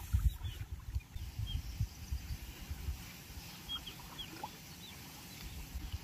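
A few short, high bird chirps, each sliding downward, over a low, uneven rumble of wind on the microphone.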